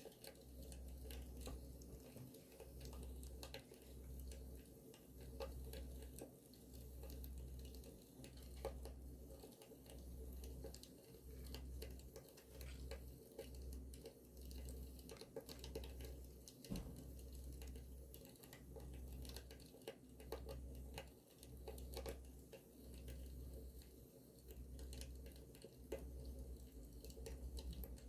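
Campfire crackling, with many scattered small pops over a low rumble that swells and fades about once a second.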